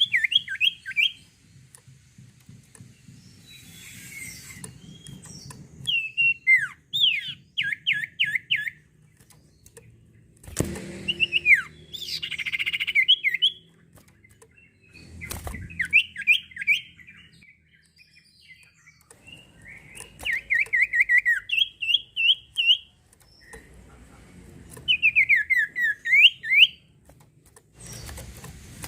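Sirtu songbird singing in repeated short bouts of rapid chirping notes. Each bout is a quick run of sliding whistles, several a second, with pauses of a second or two between bouts.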